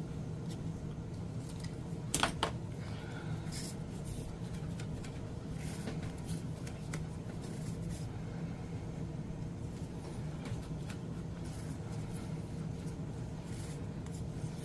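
Scissors trimming paper, with one sharp snip about two seconds in and light paper handling, over a steady low hum.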